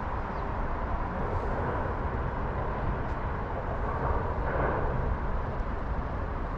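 Steady outdoor background rumble of vehicle traffic, with something passing that swells and fades about four and a half seconds in.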